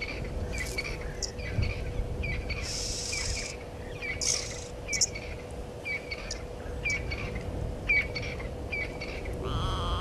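Birds calling: a short chirp repeated about twice a second, with a few harsh, hissing calls between them, over a faint steady hum and low outdoor rumble.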